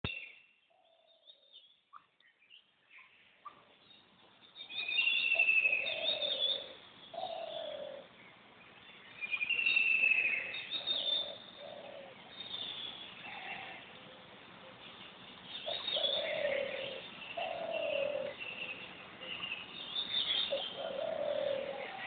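Birds calling: repeated short falling notes with higher chirps and trills above them, starting about four seconds in after a quiet start.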